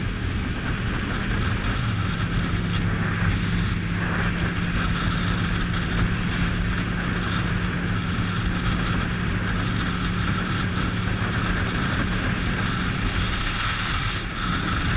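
1998 Ducati Monster 750's air-cooled L-twin engine running at a steady cruise, with wind rushing over the microphone.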